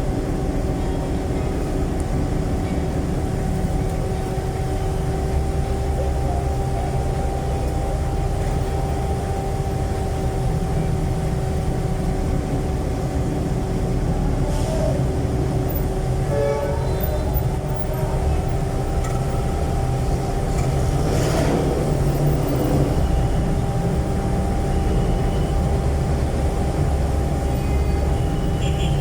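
Jeepney's Isuzu 4BC1 four-cylinder diesel engine running under way through a loud exhaust, a heavy low rumble, with a steady high whine held at one pitch throughout. A brief clatter comes about three-quarters of the way through.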